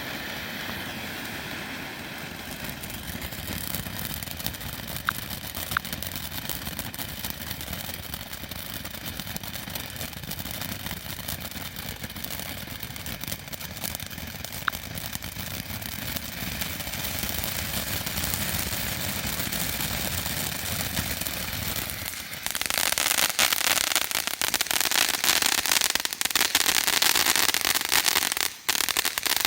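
Firework fountain burning with a steady hissing spray and a few scattered pops. About three quarters of the way through, a much louder, dense crackle suddenly kicks in: the fountain's bigger crackle stage.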